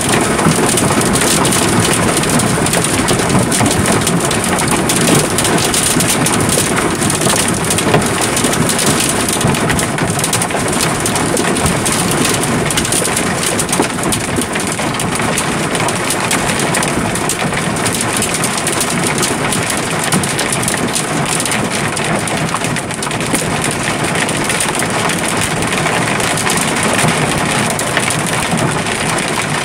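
Hail and ice pelting down in a storm: a dense, steady rush of countless small impacts.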